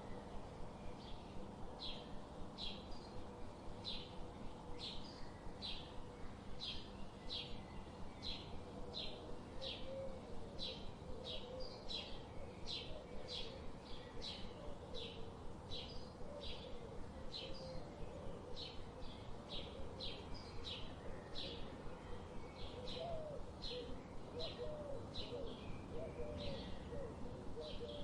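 Birds chirping: short high chirps repeated about one and a half times a second over a steady low background hiss. From about ten seconds in, lower wavering calls join in.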